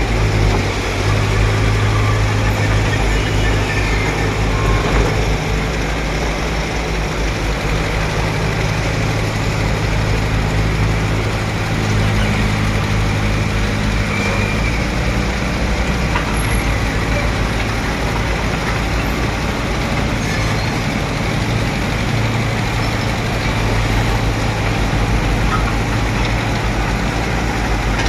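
Bulldozer's diesel engine running steadily, its note shifting a little about halfway through as the load changes.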